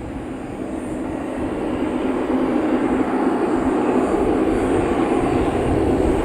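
Bombardier DHC8-Q400 turboprop running its engines and propellers after landing, growing steadily louder as it comes nearer.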